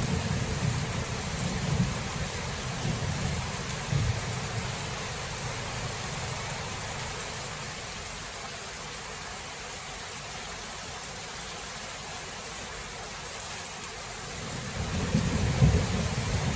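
Thunderstorm: steady rain with rolling thunder. A low rumble fades away over the first few seconds, rain carries on alone through the middle, and a new rumble builds near the end.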